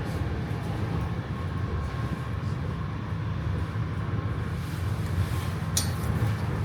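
Electric regional train running along the track, heard aboard: a steady low rumble of wheels on rails with a faint steady whine, and a brief high-pitched squeal near the end.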